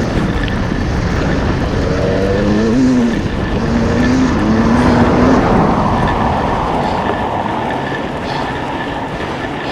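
E-mountain bike being ridden on a dirt track: continuous wind and tyre rush, with a motor drone whose pitch rises and falls during the first half.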